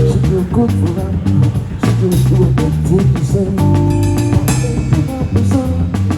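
Live band playing an instrumental groove, with drum-kit hits over held low bass notes.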